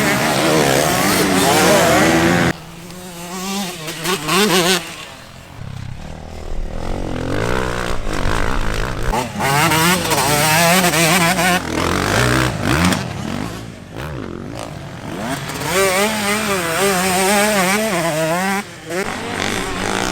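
Motocross bike engines racing, revving up and down as the riders shift and brake over the track, with several bikes heard at once. The loudness drops sharply about two and a half seconds in and again near the end.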